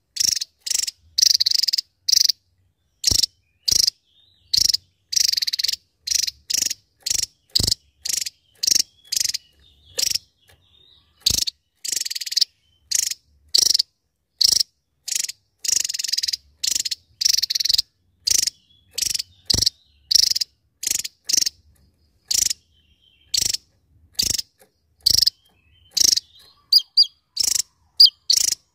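Javan tesia singing a long run of short, high, buzzy call bursts, about one to two a second with brief silences between them.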